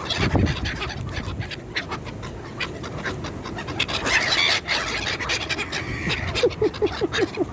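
A crowd of hungry waterbirds jostling close in, with frequent sharp flutters of flapping wings, and a duck quacking quickly about six times near the end.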